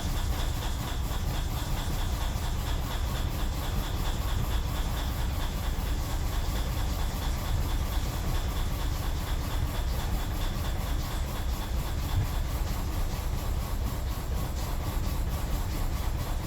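BMW 745Li's 4.4-litre V8 running rough with a fast, steady rhythmic pulsing. It is misfiring, with fuel cut off to several cylinders, and the stored codes point to the camshaft position sensors.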